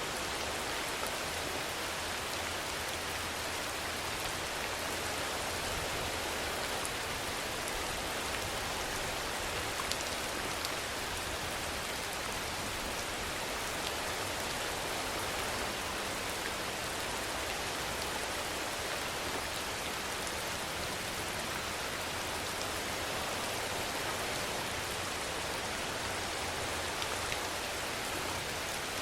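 Steady rain falling, an even hiss, with a few louder single drops ticking out of it now and then.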